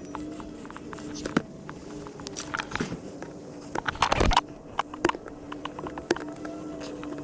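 Scattered clicks and knocks of hand tools being handled during a tire puncture repair, with one louder scraping knock about four seconds in, over a steady low hum.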